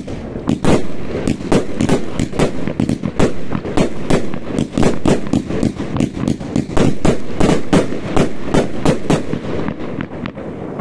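New Year's Eve fireworks going off in a dense barrage: rapid, uneven bangs and cracks, about four a second, with no let-up.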